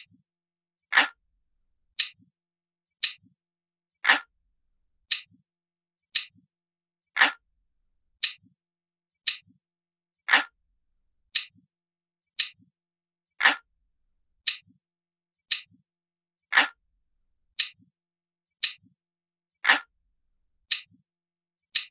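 Glass-like clock ticking from a countdown timer soundtrack: crisp ticks at about one a second, every third tick lower and fuller than the two between.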